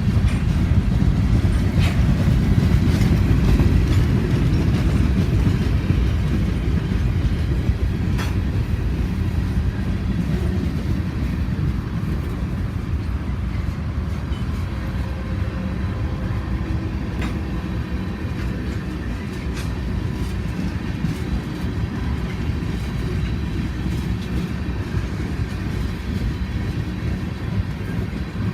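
Freight train rolling by: a steady low rumble of wheels on rail, with scattered sharp clicks and clanks.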